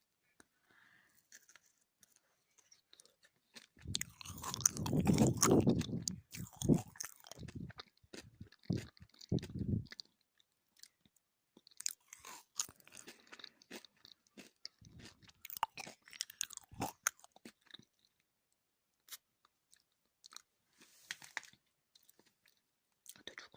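Close-miked chewing of gummy candy, with wet, sticky mouth sounds. The loudest chewing comes about four seconds in and lasts some six seconds, followed by scattered sticky smacks and clicks.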